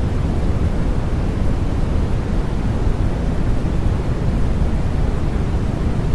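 Constant generated white-noise track: an even, unchanging hiss weighted toward the low end, with no breaks or changes.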